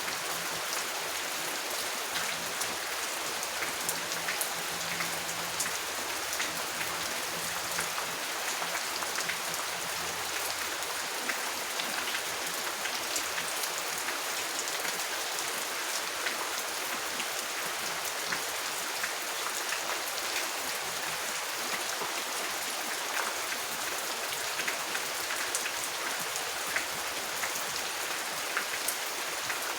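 Steady rain falling, an even hiss dotted with many individual drops striking close by.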